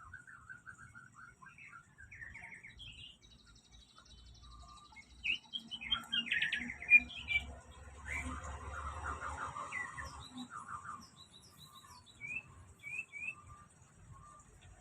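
Songbird chirping and singing in short trills and calls, busiest and loudest from about five to ten seconds in, with one sharp chirp near the middle.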